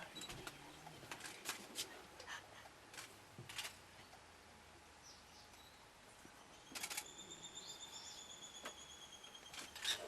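Faint outdoor lakeside ambience with scattered sharp clicks, and from about seven seconds in a steady high thin whistle lasting about three seconds.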